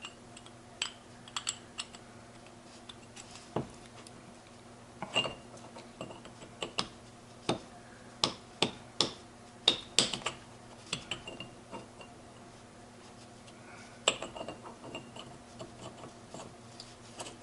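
Irregular sharp metallic clicks and taps of steel gearbox parts being handled as a part is rotated around the 1-2 synchro hub of a Ford 2000E gearbox and tried for fit. It sticks and jams at places where it should turn freely all the way round.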